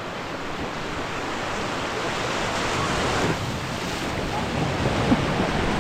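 Rushing river water, a steady noise that grows gradually louder, mixed with wind on the microphone.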